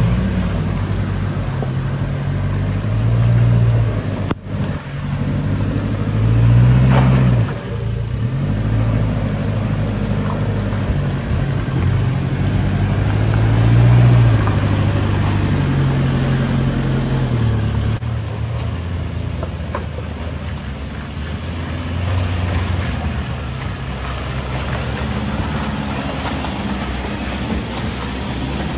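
A 4x4 vehicle's engine running as it drives, its pitch rising and falling repeatedly with acceleration and easing off, over a steady rush of tyre and road noise.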